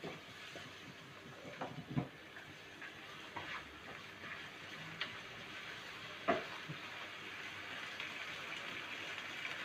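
Chicken and ginger-garlic paste frying in oil in a pan with a faint, steady sizzle. A spoon stirs and scrapes against the pan now and then, giving short clicks.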